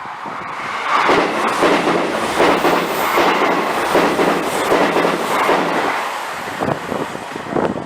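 A train passing close by, its wheels clattering over the rails in a rapid run of clacks with a steady low hum beneath. It grows loud about a second in and eases off near the end with a few last sharp clacks.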